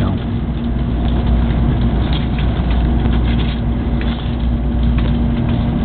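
Inside a Shinkansen bullet train in motion: a steady low rumble of the running train with a constant hum, no sudden knocks or clatter.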